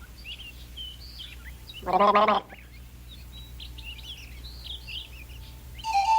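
A small songbird chirps and twitters in quick, short calls. About two seconds in, a man's voice warbles loudly for half a second, imitating the bird. Just before the end, a steady flute-like note begins.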